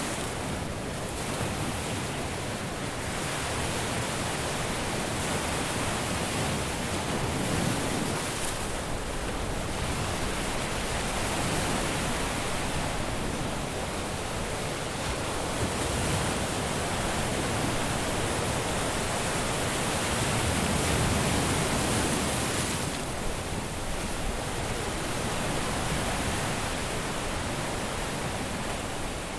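Caribbean sea waves breaking and washing on a beach: a steady rush of surf that swells and eases every few seconds.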